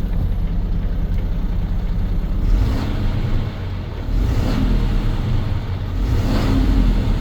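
Mercedes-Benz Atego 1324 truck's six-cylinder diesel engine running, revved three times about two seconds apart over a steady idle.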